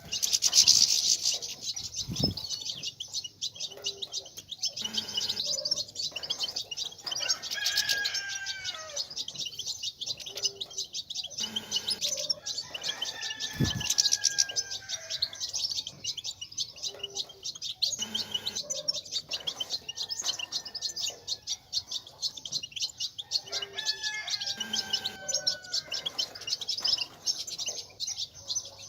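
European goldfinches twittering: a dense, fast, high-pitched chatter, with a slower falling whistle coming back about every six seconds and a louder burst about a second in. This is the goldfinch chatter ('batbata') played to stir male goldfinches into singing.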